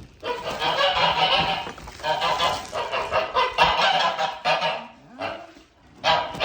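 Domestic geese honking loudly in repeated, overlapping bouts, with a brief lull about five seconds in.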